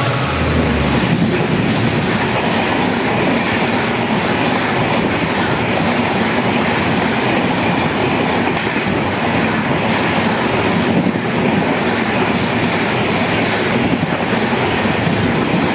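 A superfast express train passing close by at speed on the adjacent track, a steady loud rush of wheels on rail and passing coaches that holds throughout.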